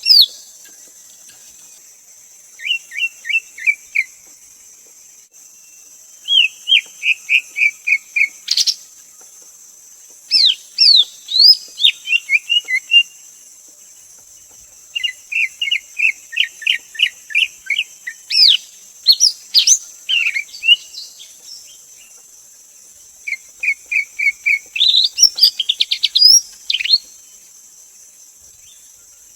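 Greater green leafbird singing: about six phrases of quick, rapidly repeated whistled notes, each lasting a few seconds with short pauses between them. A steady high hiss runs behind the song.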